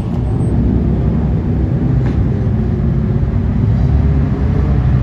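Car engine and exhaust running, a steady low drone.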